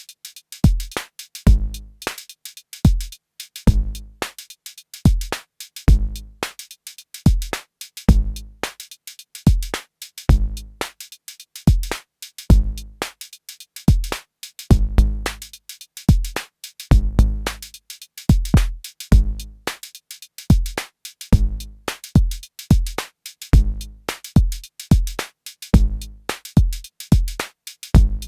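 Arturia DrumBrute Impact analog drum machine playing a looped beat: deep kick drum hits with long booming tails under short, bright snare and hi-hat hits.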